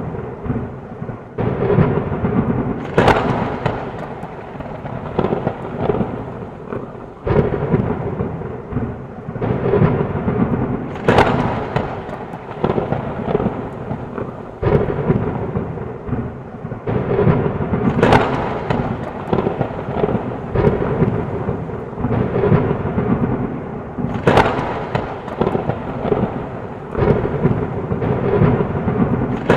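Thunderstorm: steady heavy rain under continuous rumbling thunder, with about four sharp cracks of nearby thunder spaced several seconds apart.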